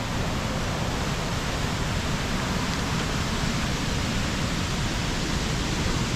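Steady rushing of water, a continuous even hiss and rumble with no change in level.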